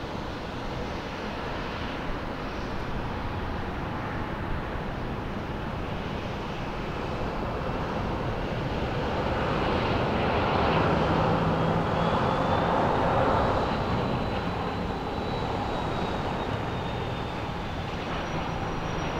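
Boeing 777-200ER jet engines rumbling as the airliner comes in to land, growing louder to a peak about ten to fourteen seconds in, then easing off, with a faint high whine over the rumble.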